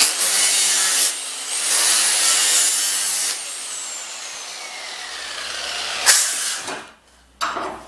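Electric grinder grinding the steel edge of a lawn mower blade in two passes, then the motor's whine falling as it winds down, with one more short grinding burst about six seconds in.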